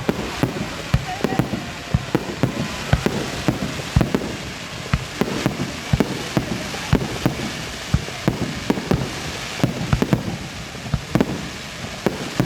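Fireworks going off very close by: a rapid, irregular string of sharp bangs, several a second, over a continuous crackle.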